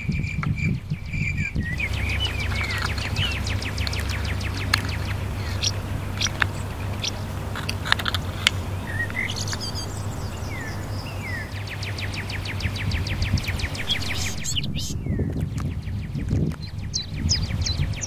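Birds chirping and trilling, with short downward-gliding calls several times over a run of fast, even high ticks. A steady low rumble sits underneath, and a few sharp clicks stand out.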